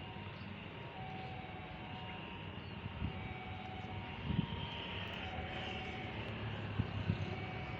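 Steady distant engine rumble, with a few low thumps about three, four and a half, and seven seconds in.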